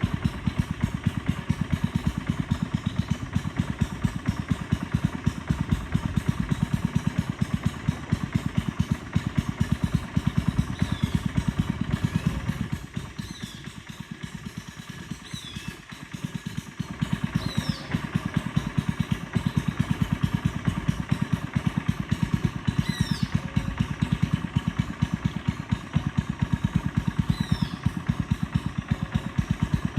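Small boat engine running steadily with a fast, even pulsing beat; it drops off for a few seconds around the middle, then picks up again.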